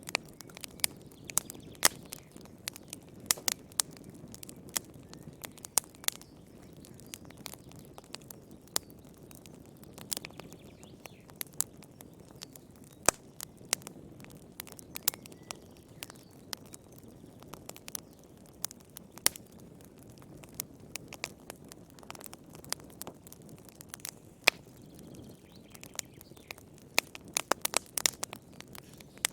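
Wood fire burning in a fireplace: irregular sharp crackles and pops, several a second at times, over a soft steady rush of flame.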